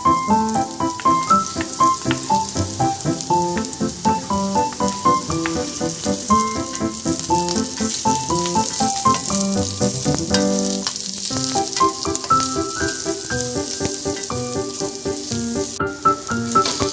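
Julienned turmeric and ginger, sliced onion and garlic sizzling as they sauté in hot oil in a pan, with a melodic background music track playing over the sizzle.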